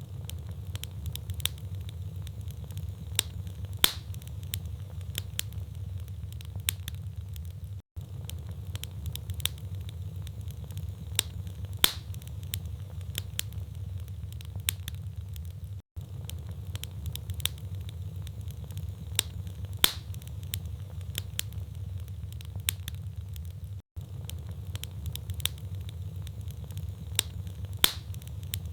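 Wood fire burning in a fireplace: logs crackling with irregular sharp pops over a low steady rumble of the flames. The sound drops out for a split second about every eight seconds.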